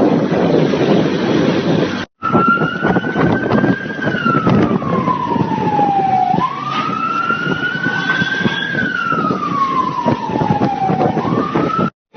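Police siren in a slow wail, rising a little then falling, repeated about every four and a half seconds over a steady rush of wind and engine noise. The sound cuts out briefly about two seconds in, and the siren starts after the gap.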